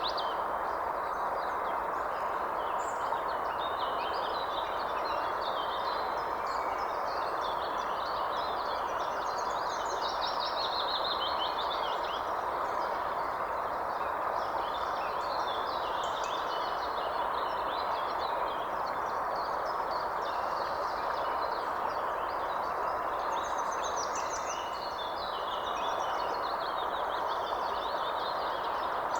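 Many birds chirping and trilling throughout over a steady rushing background noise.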